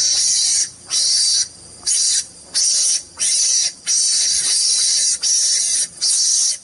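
High-pitched insect buzzing in long pulses, each about half a second to a second, broken by short gaps.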